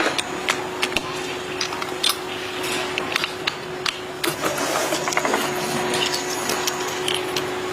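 Irregular clicks and knocks of tools at work over a steady mechanical hum.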